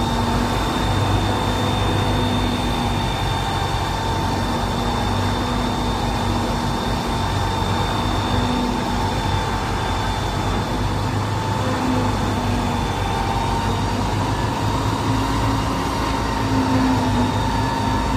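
Isuzu Giga fire truck's diesel engine running steadily, a low rumble with a constant whine over it.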